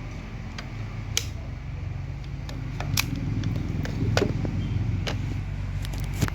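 Scattered sharp clicks and taps of hand tools and test gear being handled, over a steady low hum.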